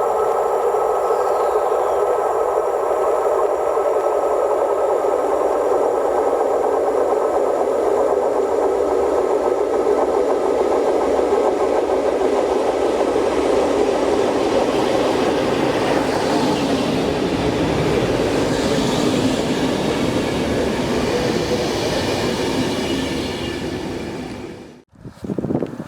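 Electric train running past on the main line: a loud, steady rail noise that fades away near the end and then cuts off.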